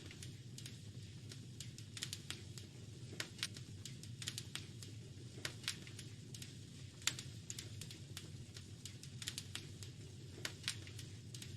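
Wood fire crackling, with irregular sharp pops and snaps over a steady low rumble; one pop about seven seconds in stands out as the loudest.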